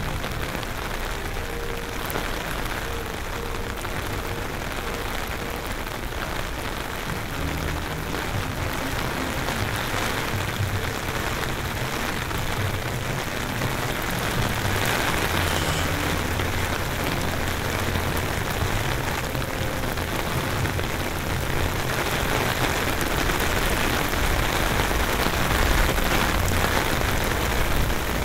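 Heavy rain from Hurricane Milton pouring and spattering on pavement, with gusty wind rumbling on the microphone. It swells louder about halfway through and again near the end.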